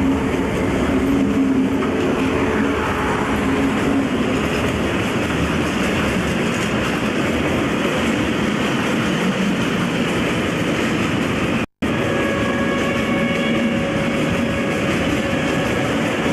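Running noise of two trains passing each other at close range. In the first few seconds the engines of two passing diesel locomotives hum under the rail noise, then the rumble and clatter of a long line of tank wagons goes by. About twelve seconds in, the sound cuts out for a split second.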